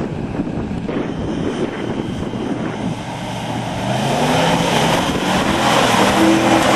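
4x4 vehicle's engine running under load, revving up with a rising pitch from about three seconds in and growing louder towards the end.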